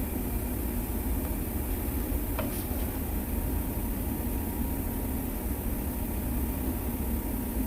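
Steady low rumble, like a running machine or ventilation, with a faint steady hum and one light click about two and a half seconds in.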